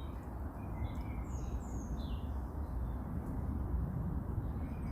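Small birds chirping a few short high notes, about three times in the first two seconds, over a steady low rumble.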